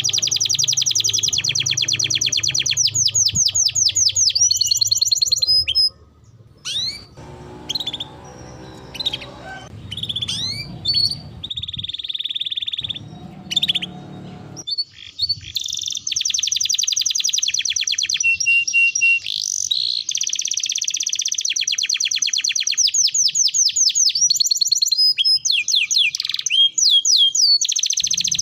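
Domestic canary singing: long, fast rolls of rapidly repeated high notes and chirps, easing into a quieter stretch of scattered single chirps and a short trill around the middle before the fast rolls resume.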